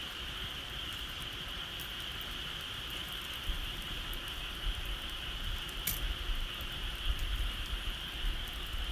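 Bonfire crackling with scattered sharp pops, over a steady high-pitched chirring drone; a low rumble builds up from about a third of the way in.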